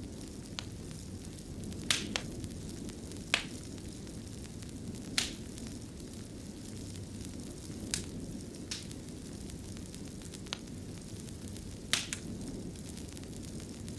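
Wood fire burning in a fireplace: a steady low rumble of flames with irregular sharp crackles and pops, about ten of them, the loudest about 2, 3.5 and 12 seconds in.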